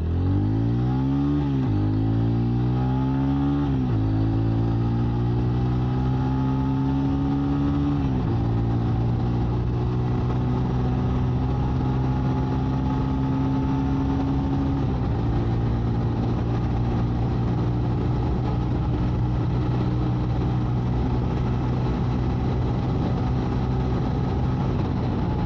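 TVS Ronin 225's single-cylinder engine accelerating hard through the gears. Its pitch rises and drops back at each of four upshifts, each gear pulling longer than the one before, then holds steady at speed for the last ten seconds.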